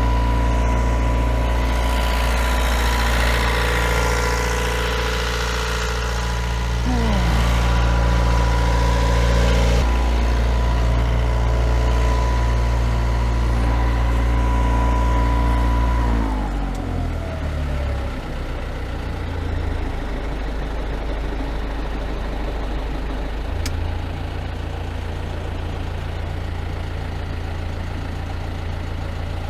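Perkins 4-108 four-cylinder marine diesel running steadily with the propeller engaged. About halfway through the revs drop smoothly and the engine settles to a lower, quieter idle.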